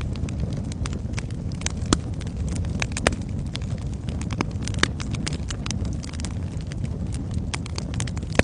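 Wood fire in a fireplace crackling: a steady low rumble of the flames with frequent irregular sharp pops and snaps of burning wood, a few louder pops among them.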